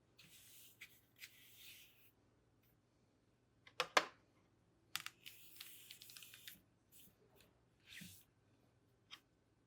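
Keyboard being cleaned by hand: soft scrubbing and rubbing noises in two stretches, broken by sharp plastic clicks, the loudest a quick cluster about four seconds in and a last single click near the end.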